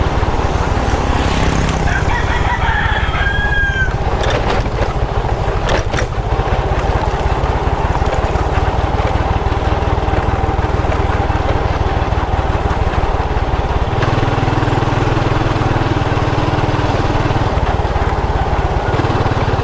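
Motorbike engine running steadily under way, with a rooster crowing once about two seconds in. The engine note changes about fourteen seconds in.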